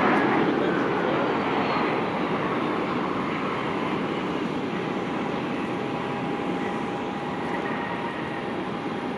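Jet airliner engines passing and fading away, a whine falling in pitch over the first two seconds as the roar slowly dies down.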